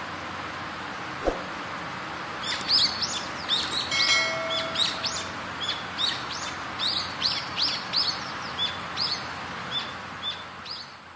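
A small bird singing a rapid series of short, high, falling chirps, about two a second, starting a couple of seconds in, over a steady outdoor background hiss. A single sharp click about a second in.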